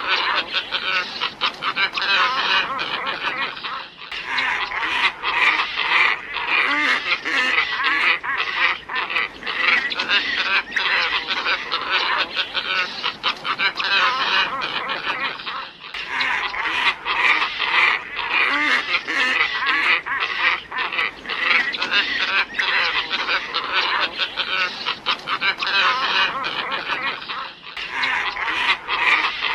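A flock of glossy ibises calling: dense, overlapping calls with no let-up. It is a lure-call recording looped about every twelve seconds, each repeat marked by a brief dip.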